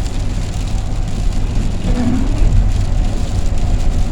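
Steady low engine and road rumble heard from inside a van driving at speed, with rain hitting the vehicle.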